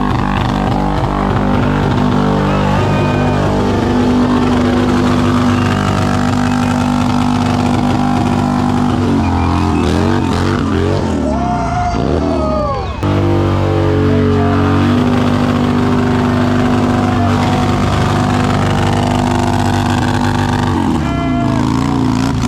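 Motorcycle engines running at low, steady revs during a slow race, with a brief rise and fall in pitch between about 10 and 13 seconds in.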